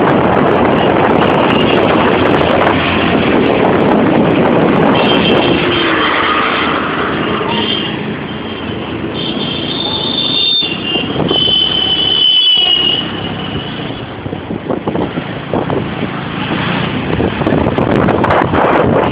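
Road vehicle noise heard during a bike ride: a steady loud rush, with several high steady tones sounding over it for a few seconds around the middle.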